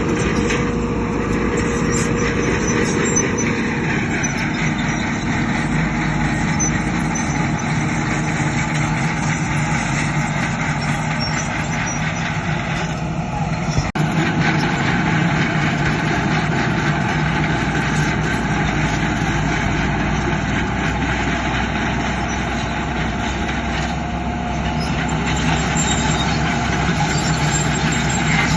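Heavy diesel engines of earthmoving machinery, a bulldozer and dump trucks, running steadily under work, with the engine note shifting a few times.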